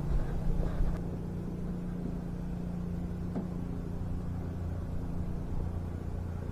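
Steady low mechanical hum holding an even pitch, which stops suddenly at the end.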